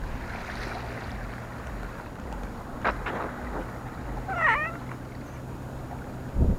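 A cat meows once, briefly, about four and a half seconds in, over a steady low outdoor rumble.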